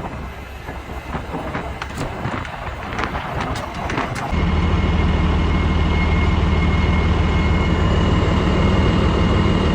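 Rough clattering with scattered knocks. About four seconds in, it changes abruptly to a steady, loud low engine drone with a faint high whine, typical of a heavy machine or truck engine running.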